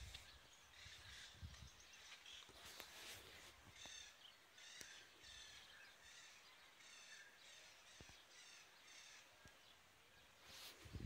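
Faint rural ambience with a bird giving a long run of evenly spaced calls, about three every two seconds, starting a couple of seconds in. There are a few low rumbles near the start.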